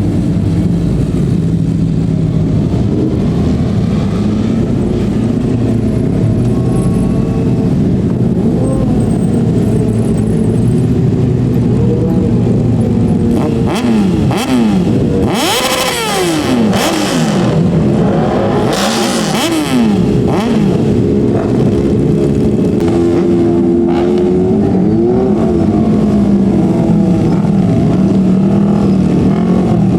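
Several 600 cc-and-up superbike engines running at high revs together. About halfway through, bikes pass close by one after another, their pitch dropping as each goes past, and then engines rev up again.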